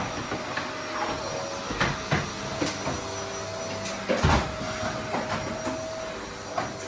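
Household handling noises: scattered knocks and clicks, the loudest about four seconds in, over a steady low hum.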